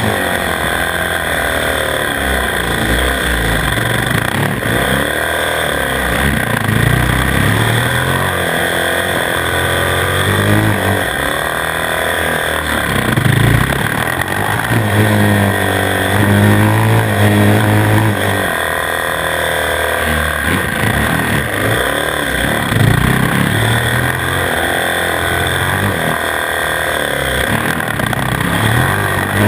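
450 cc single-cylinder four-stroke supermoto engine heard on board, its revs climbing and dropping over and over as the bike accelerates out of and brakes into tight turns.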